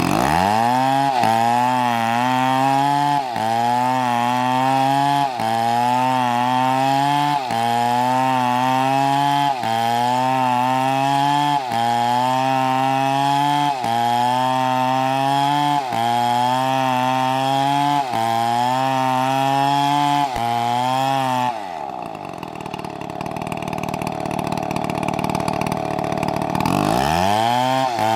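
Two-stroke chainsaw running at high revs while cutting through wood, its engine note sagging briefly and recovering about every two seconds. About three-quarters of the way through it drops to idle, then revs up again near the end.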